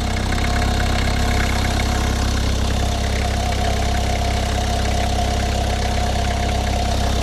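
Renault 19 diesel engine idling with a steady tone over its rumble. This is the odd noise that disappears when the clutch pedal is pressed, heard here with the clutch released.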